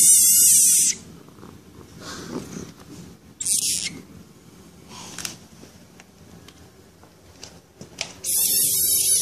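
A small frog giving its high-pitched distress scream as a cat paws at it: three screams with a wavering pitch, the first about a second long, a short one a few seconds in, and a longer one starting near the end.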